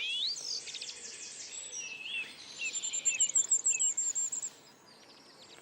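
Dawn chorus: several songbirds singing at once, with whistled phrases and chirps and a fast high trill in the middle, fading away near the end.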